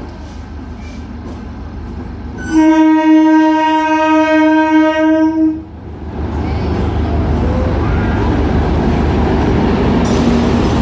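Train approaching, then sounding its horn in one steady blast of about three seconds, which is the loudest sound. After the horn comes the train's loud, steady rumble on the tracks.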